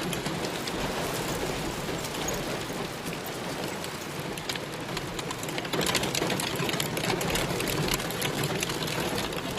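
Heavy rain pelting down: a dense steady hiss packed with sharp ticks of drops striking a hard surface, over a low steady hum.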